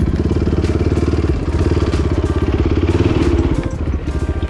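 Dirt bike's single-cylinder engine running at low speed with a steady, rapid pulse, briefly picking up a little about three seconds in and easing off again.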